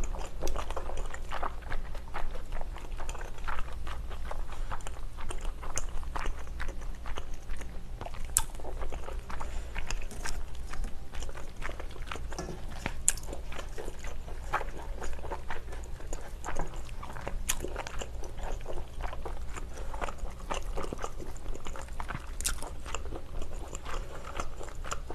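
Close-miked chewing of a mouthful of rice and spicy stir-fried pork: a steady run of small wet mouth sounds and crunches, with a few sharp clicks scattered through it.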